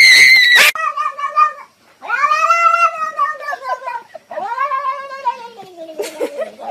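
A house cat yowling: a loud shrill cry at the start, then a short call and two long drawn-out yowls that rise and fall in pitch.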